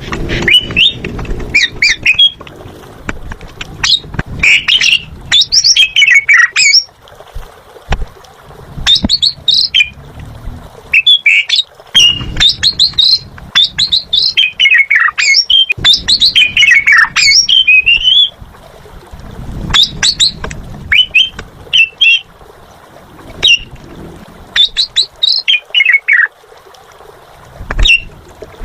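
Asian pied starling (jalak suren) singing in bouts of rapid chirps and steeply falling whistles, with short pauses between phrases.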